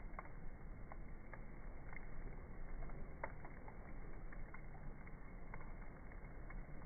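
Campfire burning, the wood crackling with about ten irregular sharp pops over a steady low rush.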